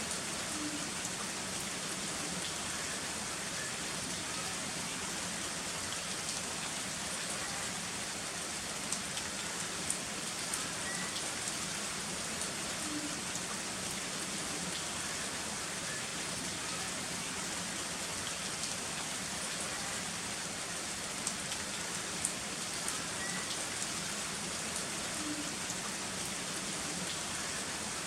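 Heavy rain falling steadily, with occasional sharper drop ticks standing out from the hiss.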